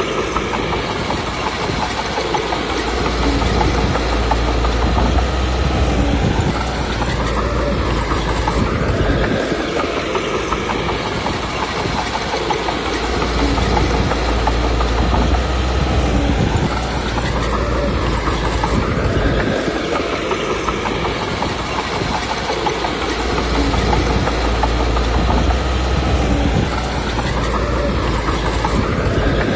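Komatsu D21P crawler bulldozer working, its diesel engine swelling and easing off in repeated cycles about every seven or eight seconds, with the steel tracks clattering throughout.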